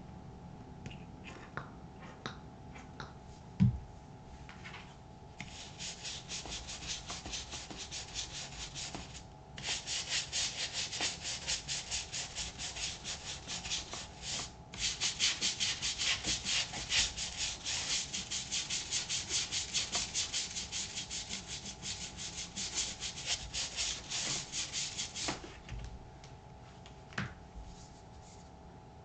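A brush scrubbing the rubber outsole of a Thorogood moc toe work boot in quick, even back-and-forth strokes, several a second. There are two brief pauses. A single knock comes about four seconds in, before the scrubbing starts.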